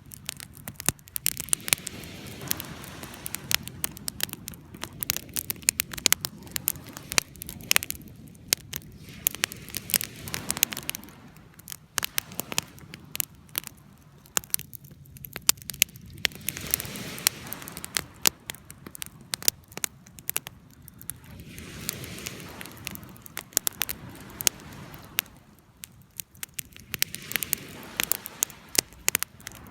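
Wood fire burning, with frequent sharp pops and crackles over a low rush of flames that swells and fades every few seconds.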